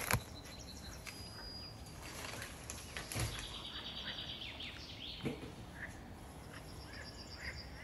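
Faint bird chirps and short trills over low room noise, with a few soft knocks or handling noises, the clearest about three seconds in.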